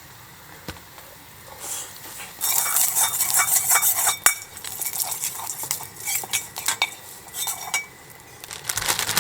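Frozen fried rice stir-frying in a Chinese wok: a loud sizzle with a utensil scraping and clinking against the wok. It starts about two seconds in and dies down near the end.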